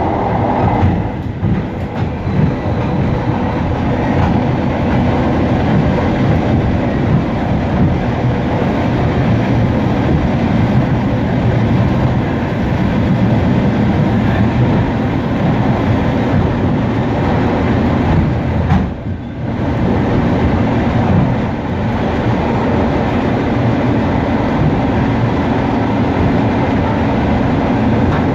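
Suburban electric train (elektrichka) running at speed, heard from the vestibule between cars: a steady, loud rumble of wheels on the rails, dipping briefly a little past two-thirds of the way through.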